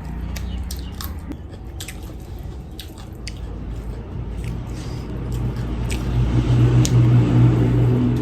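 Close-up chewing and small mouth clicks of someone eating rice and chicken curry. A low rumble of vehicle traffic builds from about five seconds in and is loudest near the end.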